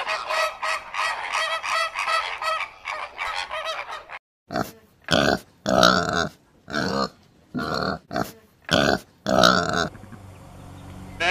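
A flock of flamingos honking in a fast, overlapping run of calls, several a second. About four seconds in, this gives way to pigs calling in about seven short grunts and squeals, roughly one a second.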